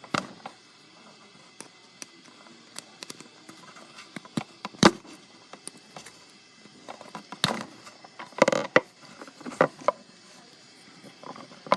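Scattered small clicks and knocks from handling an old acorn-style electric plug and its zip cord, with one louder knock about five seconds in and a small cluster of clicks later on.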